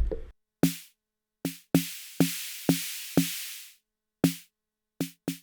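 Snare 1 of the Arturia DrumBrute Impact analog drum machine, struck as about nine single hits in an uneven pattern, with its Color feature adding body. Each hit has a short two-tone drum body under a burst of noise, and several hits in the middle ring on with longer noise tails.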